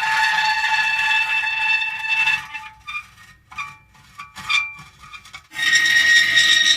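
Metal creaking: one long, pitched creak, then a broken series of short squeaks, then another long creak at a different pitch starting a little past halfway.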